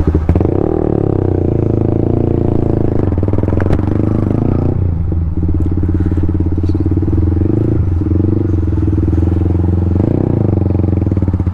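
Yamaha MT-15's single-cylinder 155 cc engine running through an aftermarket Akrapovic exhaust as the bike rides off, a steady engine note whose pitch shifts several times.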